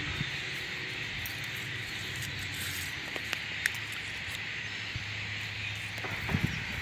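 A huge flock of blackbirds calling all at once, a steady chattering din of countless overlapping calls.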